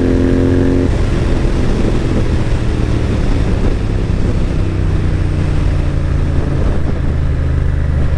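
Royal Enfield GT650's parallel-twin engine running through an AEW aftermarket exhaust while riding at a fairly even pace, a loud steady low exhaust note.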